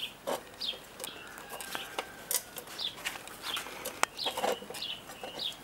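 A bird's repeated short high chirps, each falling in pitch, about two to three a second, with scattered clicks and knocks.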